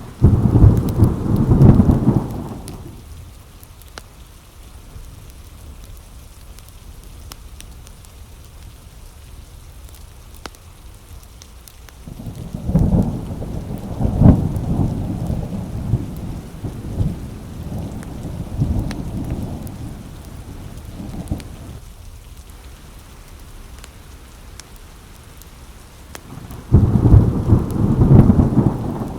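Thunderstorm: steady rain with three rolls of thunder. One rumbles through the first few seconds, a longer one with several peaks comes about twelve seconds in and lasts around ten seconds, and another begins near the end.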